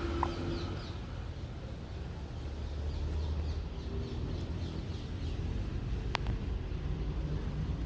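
An African grey parrot giving a string of faint, short chirps, with one sharp tap about six seconds in, over a steady low hum.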